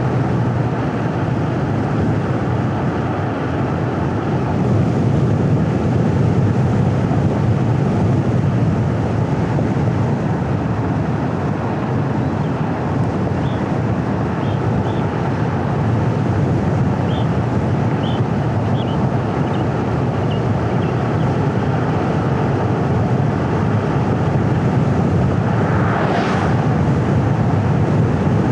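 A car driving along a winding road: a steady low rumble of engine and tyre noise with wind on the microphone. A brief whoosh comes near the end.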